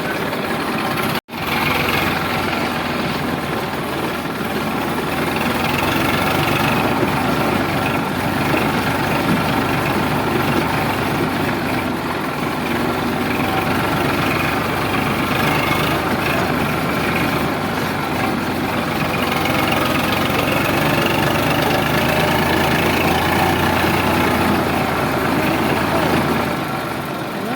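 Sonalika DI 745 tractor's diesel engine running steadily, with a sudden brief break about a second in.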